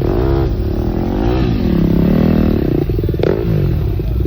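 Engine revving up and down several times over an idle, with a sharp click about three seconds in.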